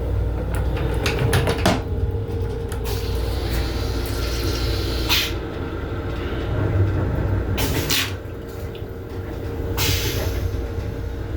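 Metro-North M7 electric railcar running, heard from inside the car: a steady deep rumble with a constant hum, and several sharp clicks and knocks, the loudest about five, eight and ten seconds in.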